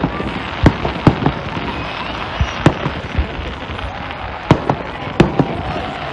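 Fireworks display: shells bursting as sharp bangs at irregular intervals, several within a few seconds, over a steady background haze.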